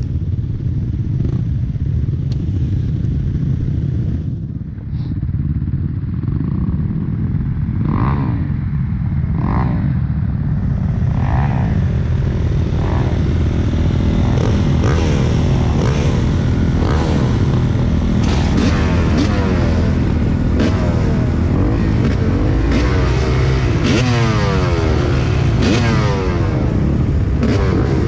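Several motocross dirt bikes revving and accelerating together, their engine notes overlapping in repeated rising and falling sweeps that grow denser about halfway through.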